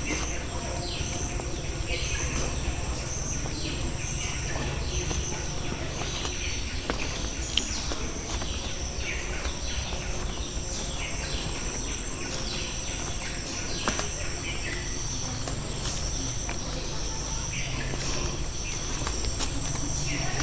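Steady high-pitched insect chorus of crickets or cicadas, with short falling bird chirps repeating over it and a low outdoor rumble underneath.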